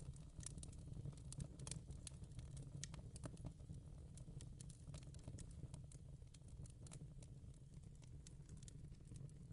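Faint fireplace crackling: irregular small pops and snaps, several a second, over a low steady hum.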